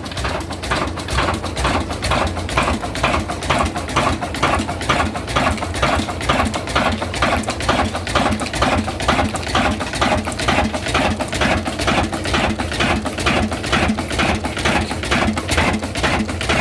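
Old diesel engine running steadily after being started, with an even beat of about three strokes a second.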